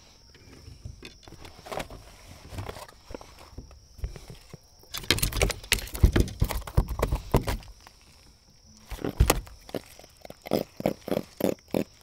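A freshly landed grunter on a measuring mat, with thumps and knocks from it and from its handling. Near the end comes a quick run of short croaking pulses, about four or five a second: the fish grunting out of the water.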